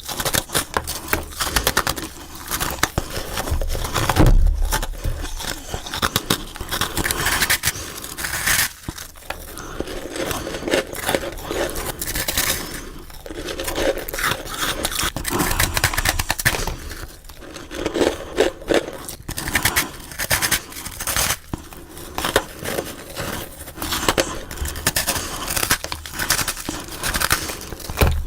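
Close-miked biting and crunching of freezer frost, one dense crackling crunch after another, played sped up.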